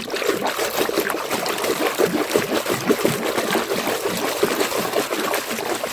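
Water splashing and trickling as a small muddy toy tractor is washed by hand in water, with a constant patter of small irregular splashes that begins abruptly.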